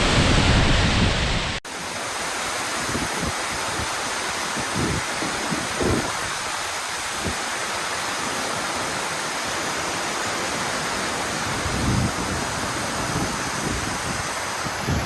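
A plunge waterfall's steady rushing roar of falling water. About one and a half seconds in, the sound cuts abruptly to a slightly different take, with a few low thumps of wind on the microphone after the cut.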